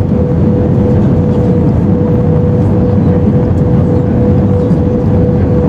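Airbus A320-214 cabin noise: the steady, loud roar of airflow and its CFM56 engines, with a steady hum running through it.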